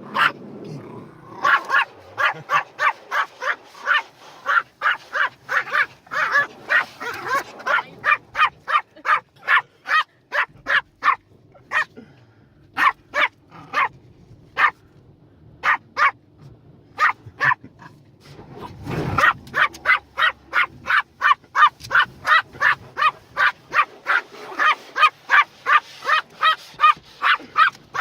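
Dog barking agitatedly inside a car going through a car wash: rapid barks, about two to three a second, with a few short pauses, over the low steady noise of the car wash. The wash noise surges louder for about a second some 19 seconds in.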